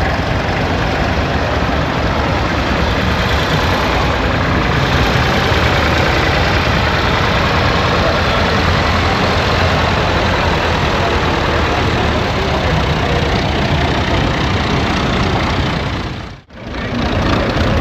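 An engine running steadily, with a brief dropout near the end.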